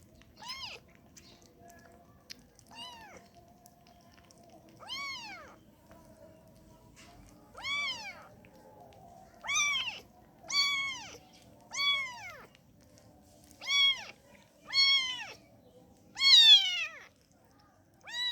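Kitten meowing repeatedly, high pitched calls that each rise and fall, one every second or two, growing louder in the second half: a hungry kitten crying to nurse.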